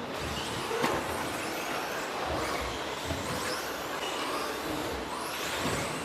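Several electric RC stadium trucks with 13.5-turn brushless motors racing on a dirt track: overlapping high motor whines rising and falling with the throttle over tyre noise, with a sharp knock about a second in.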